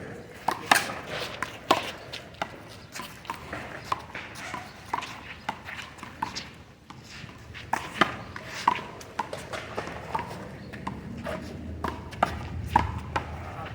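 One-wall handball rally: a small rubber ball is slapped by hand and smacks off the wall and ground in sharp, irregular knocks, with shoe scuffs and squeaks in between.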